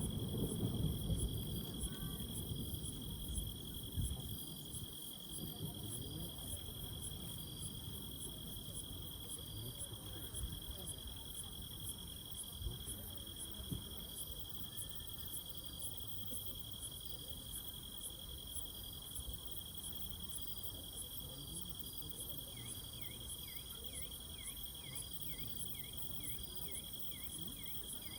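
Insects singing: a steady high trill with evenly repeating pulsed chirps above it, and a second insect's rapid chirps joining after about 22 seconds. A low background rumble is loudest in the first few seconds.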